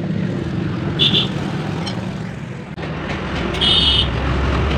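Road traffic with a steady engine rumble, and two short high-pitched vehicle horn beeps, one about a second in and one near the end.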